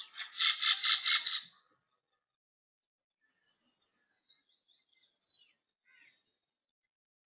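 Birds calling: a loud, rapid chattering series of repeated notes for the first second and a half, then, after a pause, a fainter string of thin, high, quick notes and a short single call.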